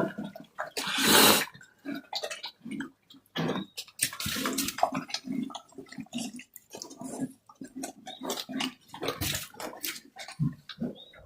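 Pigs eating: wet chewing and smacking in short, irregular bursts.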